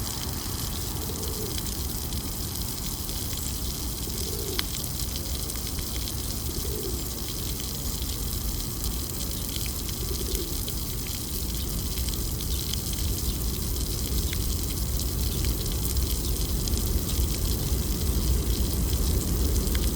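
Steady rushing city noise with a low traffic rumble that grows louder over the second half.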